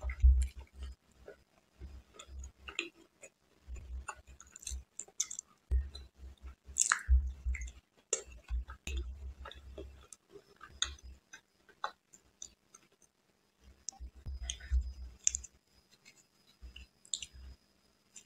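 Close-miked chewing of soft Indian sweets, coming in irregular bursts of mouth clicks and low thumps with short pauses.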